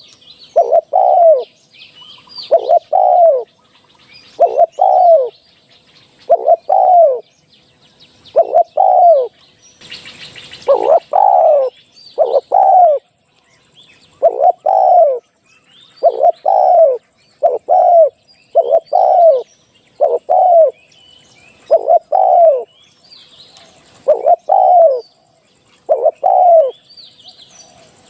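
Spotted dove cooing over and over: a pair of falling coo notes about every one and a half to two seconds, with faint chirps of other birds behind.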